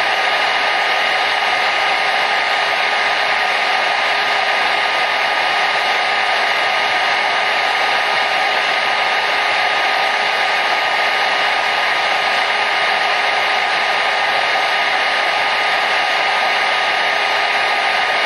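Hair dryer running at a steady speed: an even rushing of air with a faint motor whine in it.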